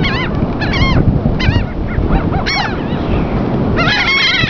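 Laughing gulls calling in short, arched cries a few times, then several calling over one another near the end, over a steady low rumble.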